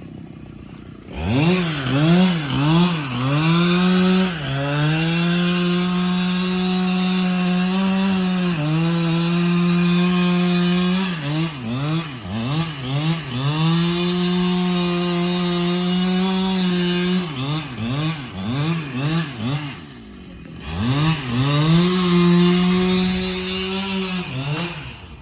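Husqvarna 395XP two-stroke chainsaw revving in quick blips, then held at a steady high pitch at full throttle while cutting through wood, several times over. It stops briefly about twenty seconds in, then revs and cuts again.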